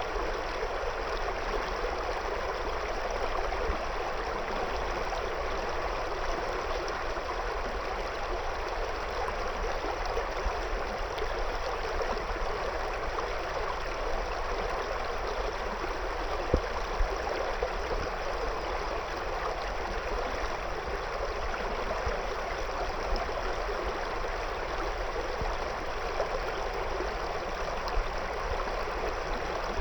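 A river flowing over and around stones: a steady, even rush of water, with a few brief louder moments about halfway through and near the end.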